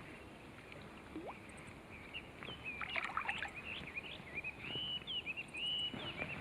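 A songbird singing a run of quick chirps and whistles that starts about two seconds in, over a faint steady outdoor background.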